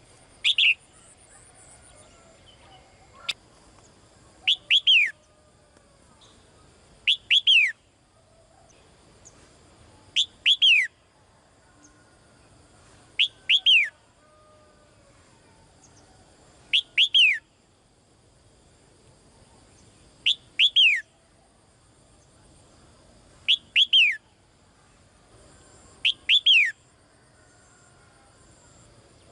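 A caged female songbird calling to a male, repeating a short call of two or three quick downward-sweeping whistled notes about every three to three and a half seconds. A single sharp click about three seconds in.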